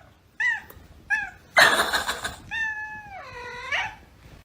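Cat meowing: two short meows, a brief rasping burst, then one long drawn-out meow that dips in pitch and rises again at its end.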